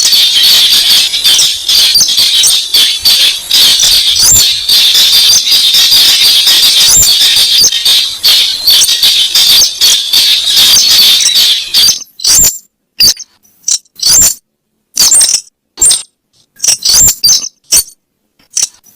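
Lure-call recording of a weris bird: a dense, rapid run of sharp, high, squeaky notes for about twelve seconds, then breaking into short separate calls with silent gaps between them.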